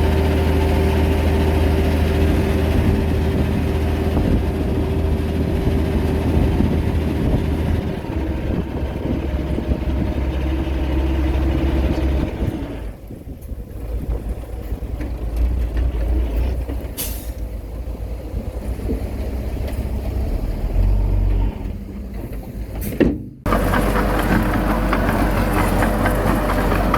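Heavy diesel earthmoving machinery running with a steady low engine drone. The drone falls back about halfway through, with two short sharp sounds, then comes back loud all at once near the end.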